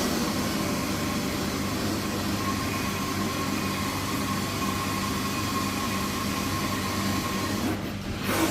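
Carpet-cleaning extraction wand running steadily, with the hiss of pressurised spray and the rush of vacuum suction pulling water out of the carpet. The sound breaks off briefly near the end and then comes back.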